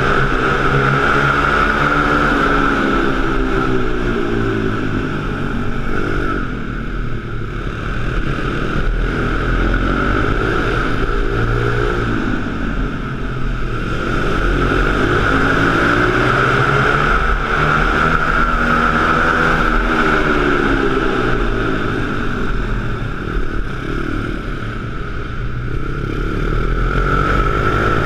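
Pit bike engine revving up and easing off over and over, its pitch rising and falling about every five to six seconds, with a steady high whine running over it.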